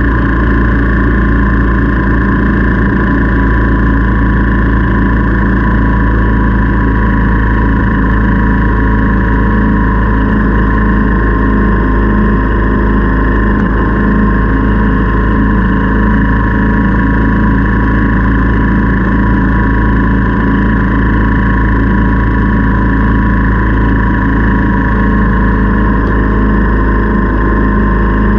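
Motorcycle engine running at a steady speed on the move, with constant wind rumble on the GoPro microphone.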